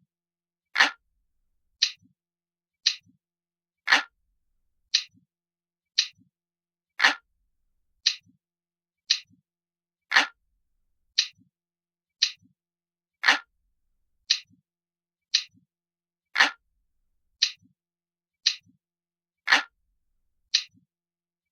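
Looped sound of an analog clock ticking, about one tick a second. Every third tick is louder and deeper than the two between.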